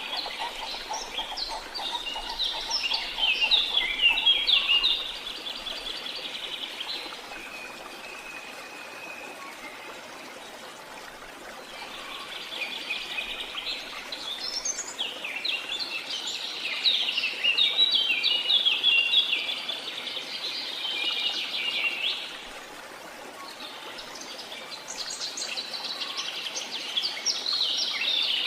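Songbirds singing in long, busy runs of rapid chirps and trills, in three bouts with short pauses between, over a steady rush of falling water.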